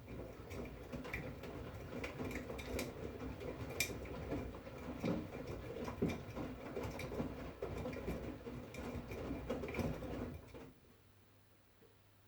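V-Zug Unimatic SL washing machine's drum turning during the wash, wet laundry tumbling with many small clicks and patters over a low motor hum; it stops about ten and a half seconds in as the drum pauses.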